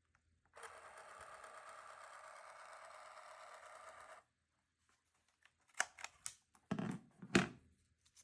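A small motor buzzes steadily for about three and a half seconds and stops, then a handful of sharp clicks and knocks follow near the end, the last one the loudest.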